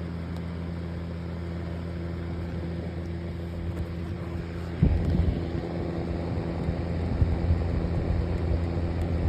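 Konwin electric fan heater running, its fan motor giving a steady hum. About five seconds in, a louder, uneven low rumble joins, the heater's blown air buffeting the microphone.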